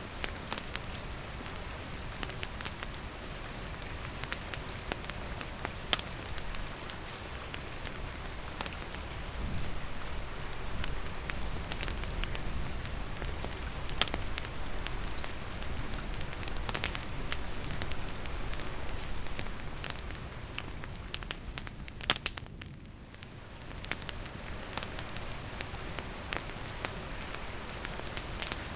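Steady rain falling, mixed with a wood campfire crackling, with sharp pops and ticks scattered throughout. The sound softens briefly a little after twenty seconds in.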